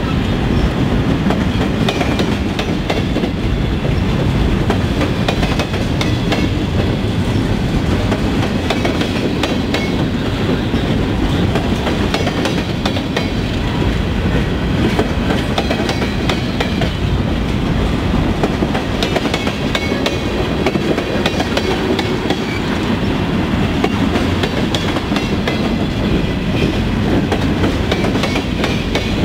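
Freight train of covered hopper cars rolling past close by: a steady loud rumble with a continual clatter of wheels clicking over the rail joints.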